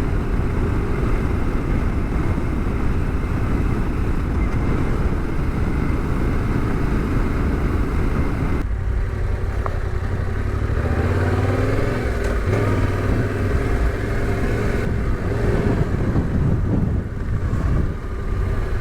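Yamaha Ténéré 700 parallel-twin motorcycle engine running as the bike is ridden, its note rising and falling with the throttle, easing off near the end.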